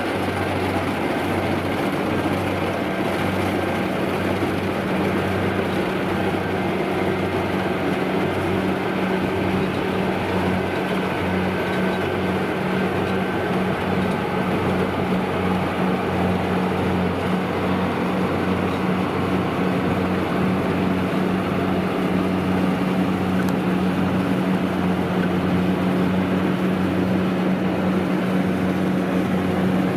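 Kubota DC-93 combine harvester's diesel engine running steadily under load with a deep, evenly pulsing hum, over the rattle of the harvesting machinery.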